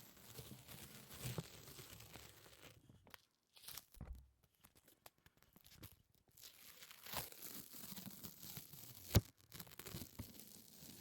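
Sticky, tacky surfaces being pulled apart close to the microphone: irregular crackling, peeling and tearing sounds. There is a short lull about three seconds in and one sharp snap about nine seconds in.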